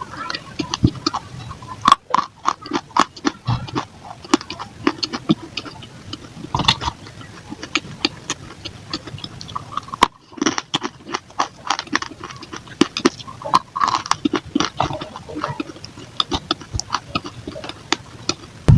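Close-up crunching and chewing of baked clay balls and pieces of clay pot: a rapid, irregular run of sharp cracks and crunches. The crunching is sped up and broken by abrupt edits about two seconds and ten seconds in.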